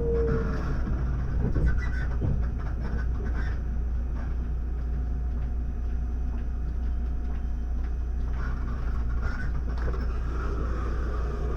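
Inside a JR 681-series limited express motor car that has just come to a stop: a steady low hum from the train's equipment, with scattered clicks and creaks in the car.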